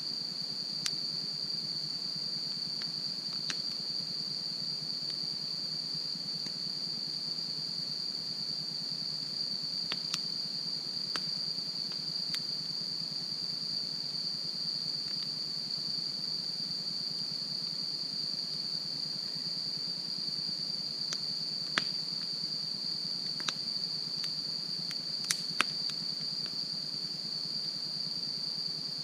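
Crickets trilling in a steady, high-pitched drone, with a campfire giving off scattered sharp pops and cracks, a few louder ones near the end.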